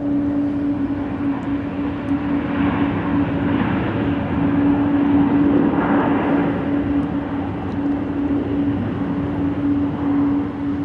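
Jet airliner's engines passing, the rumble swelling to a peak about halfway through and easing off, over a steady droning tone.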